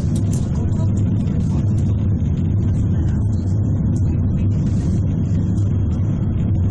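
Cairngorm Mountain Railway funicular carriage running on its track, a steady low rumble.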